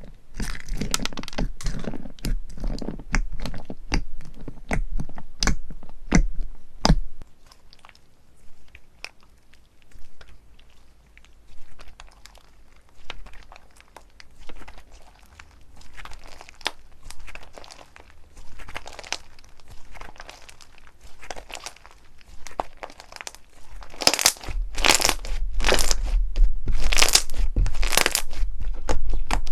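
Slime being squeezed and pressed by hand, giving crunchy crackling and popping. The crackles are dense for the first several seconds, sparser and quieter in the middle, and grow louder again near the end.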